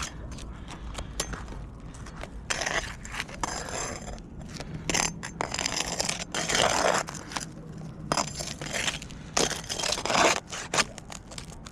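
3-tab asphalt shingles being pried and lifted off a roof, scraping and crunching in irregular bursts as the tabs are worked loose over their nails.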